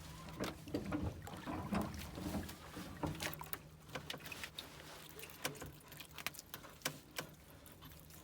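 A run of irregular light knocks and clicks, with a low steady hum that fades out about three seconds in.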